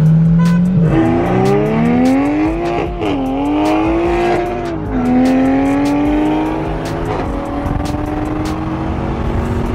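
C8 Corvette's V8 heard from inside its cabin, accelerating hard from a roll. The engine note climbs steadily in pitch, and its dual-clutch gearbox makes quick upshifts about three, five and seven seconds in, the pitch dropping at each shift and climbing again.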